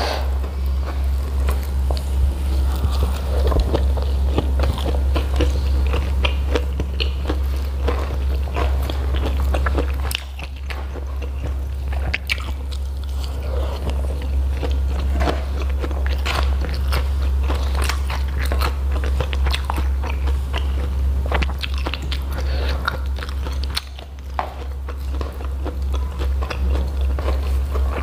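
Close-miked eating: chewing and crunching of hand-eaten rice with jengkol in chilli sauce and raw greens, full of short wet mouth clicks and smacks, over a steady low hum.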